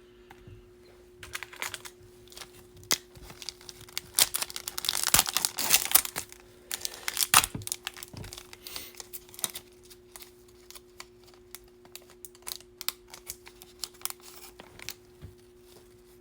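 Foil trading-card pack wrapper crinkling and tearing while cards are handled: irregular rustles and clicks, busiest in the middle, over a faint steady low hum.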